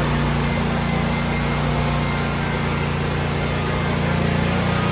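Scag V-Ride II 52-inch mower's engine running steadily after its first cold start since it was laid up for the winter, growing a little louder near the end.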